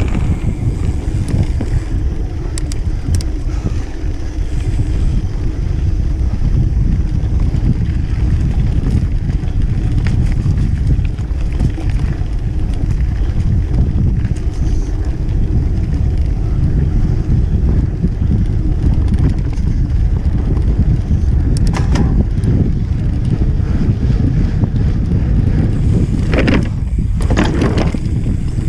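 Wind rumbling on a ride-mounted camera's microphone as a mountain bike is ridden along a trail. A few sharp knocks and rattles come about two seconds in, past the twenty-second mark and in the last few seconds.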